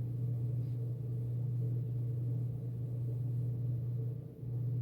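Steady low hum with fainter higher overtones, unbroken except for a brief dip near the end.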